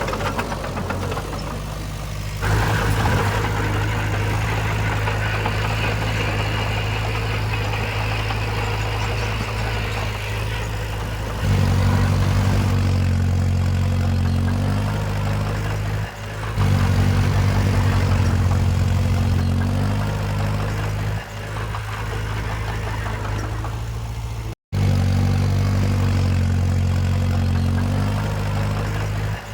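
Heavy earthmoving machinery's diesel engine running with a steady low drone. The engine pitch and loudness jump abruptly to new steady levels several times, with a brief dropout a little past two-thirds of the way through.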